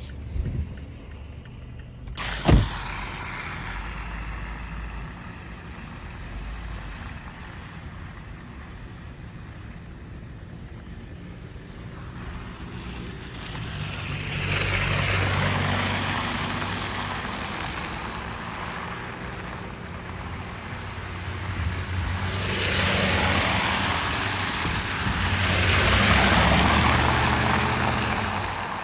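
Car driving along snowy city streets: steady engine and tyre noise that swells twice, in the second half, as traffic noise builds, with one sharp knock about two and a half seconds in.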